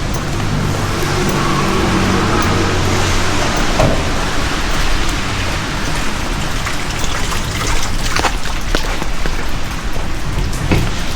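Heavy rain falling steadily on the street, with a vehicle's engine humming low through the first few seconds. A few sharp taps stand out later, around the eighth second and again near the end.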